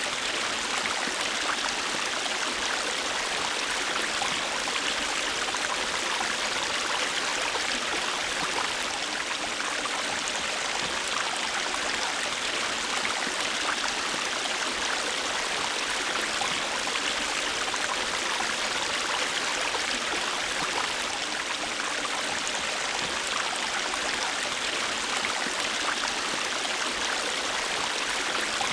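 River water flowing over rocks in a steady, even rush with no breaks or changes.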